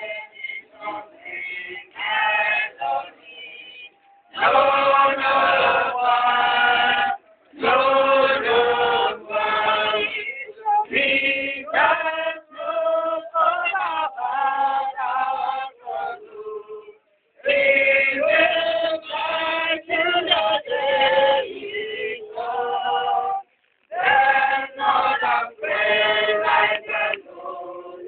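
A choir singing a hymn without instruments, in sung phrases broken by short pauses.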